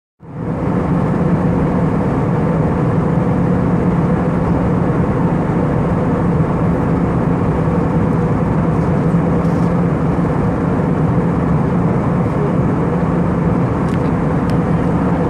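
Airbus A319 airliner cabin noise in flight: a steady drone of engines and rushing air with a constant low hum.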